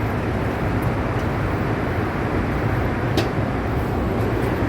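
Steady low mechanical rumble with hiss, with one sharp click about three seconds in.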